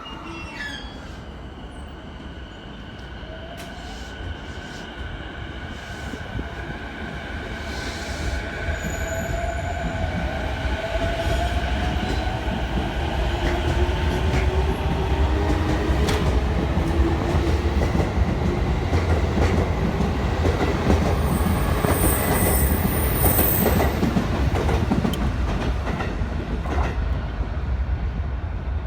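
JR East E233 series 5000 electric train pulling away and accelerating. Its inverter and traction motors give several whining tones that rise in pitch as it gathers speed. The wheels on the rails grow steadily louder, with clicks over the rail joints in the second half.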